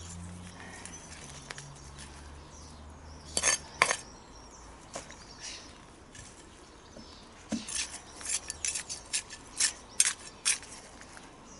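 Weeding by hand: a tool digging into soil and working out dandelion roots, making a series of short sharp scrapes and clinks. There are two close together a few seconds in and a quicker run of them later. A low hum sounds underneath for the first few seconds.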